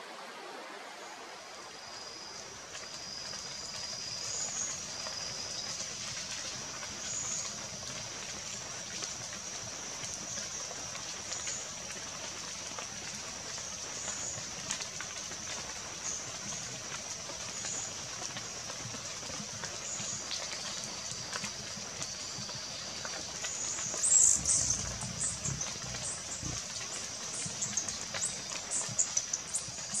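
Forest birdsong: a steady high-pitched tone with short calls repeating every second or two. About 24 s in comes a loud burst of chirps, then a quick run of short chirps near the end.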